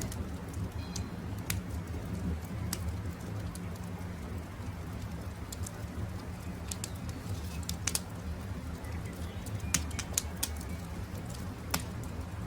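Campfire crackling, with sharp irregular pops over a steady low rumble of burning wood, and a few faint bird chirps in the background.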